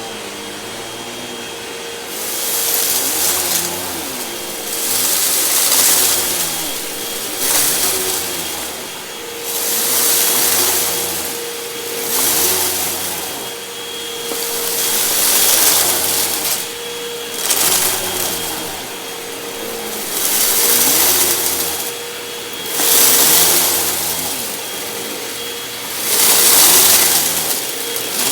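Hoover WindTunnel 2 Rewind upright vacuum cleaner running with a steady motor whine. From about two seconds in, the sound swells and falls about every two and a half seconds as it is pushed back and forth over carpet.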